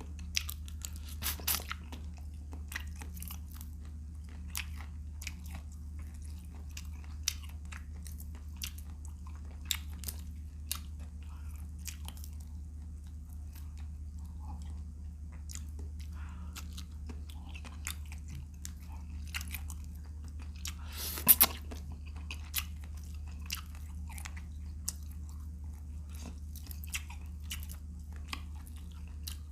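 Close-miked chewing and biting of vinegar-stewed shrimp, with frequent small crisp clicks and smacks and one louder crunch about two-thirds of the way through, over a steady low hum.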